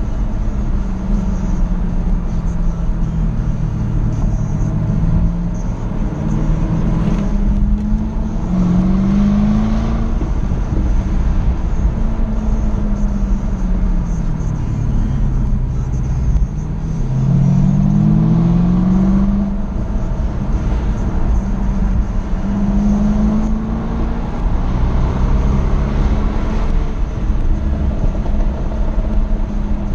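Jaguar F-Type SVR's supercharged V8 driven hard, its revs repeatedly climbing and dropping as it accelerates and lifts off, over a steady low rumble of road and wind noise.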